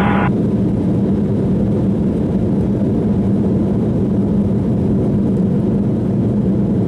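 Cabin noise of an Embraer E190 in its climb after takeoff: the steady drone of its GE CF34-10E turbofan engines heard from inside the cabin, with a strong low hum.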